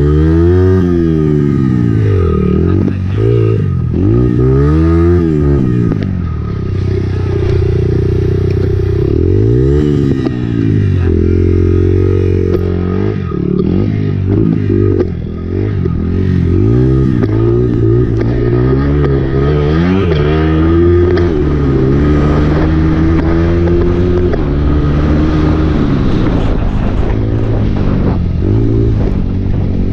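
Honda CRF four-stroke dirt bike engine being ridden, its pitch climbing and dropping over and over as the throttle opens and closes through the gears.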